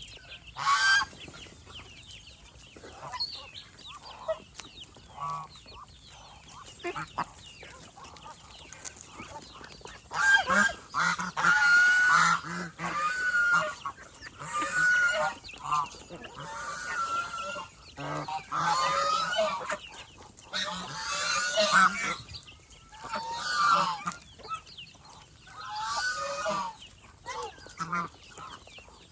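Domestic geese honking in loud, repeated bouts that begin about a third of the way in, with only scattered softer fowl calls before that.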